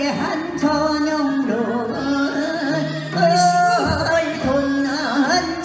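Korean Gyeonggi folk song (Gyeonggi minyo) sung with long, wavering held notes.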